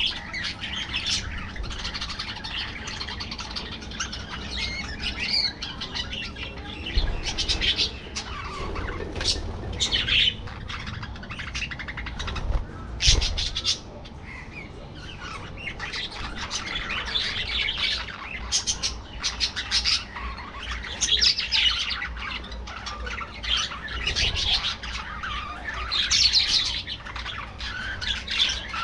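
A flock of budgerigars chattering, with a continuous tangle of warbling chirps and squawks. There are scattered sharp clicks, and one louder knock about halfway through.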